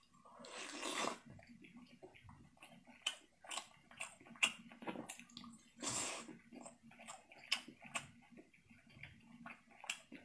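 Close-miked chewing of braised meat: faint wet smacks and clicks of the mouth at an irregular pace, with two longer hissing, sucking sounds, one near the start and one about six seconds in.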